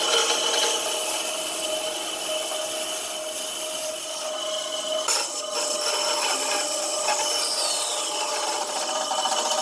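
Electric power tool working on wood, running steadily with a constant motor whine under the noise of the cut.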